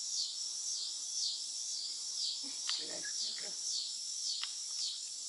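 Cicadas buzzing in a continuous high chorus that wavers in a regular rhythm, a little under two pulses a second, with a few faint short chirps over it.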